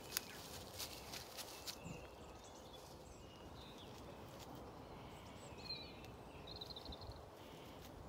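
Faint birdsong over a steady outdoor hush: a short chirp about two-thirds through and a quick trill soon after. A few sharp clicks come in the first two seconds, the loudest right at the start.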